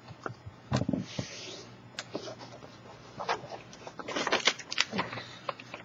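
A sheet of paper being folded by hand and pressed along the crease: rustling with short, sharp crackles, densest about four seconds in.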